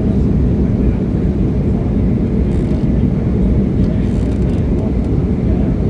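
Steady low cabin noise of an Embraer E175 jet in flight, the engines and airflow heard from inside the passenger cabin.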